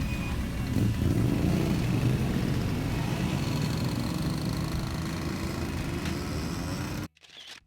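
Motorcycle engine running, growing louder about a second in and holding steady, then cutting off abruptly near the end.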